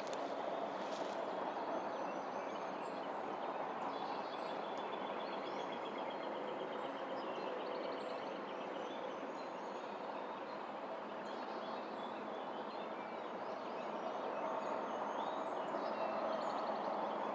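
Steady outdoor background noise with faint bird chirps and short trills over it.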